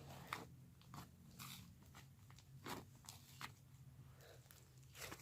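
Faint, scattered crackles and squishes of butter slime with foam balls being stretched and pressed in the hands.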